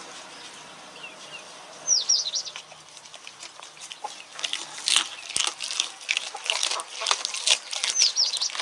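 Bird chirps, a quick run of high falling notes about two seconds in and again near the end, over a busy patter of sharp clicks and crunches from about halfway on.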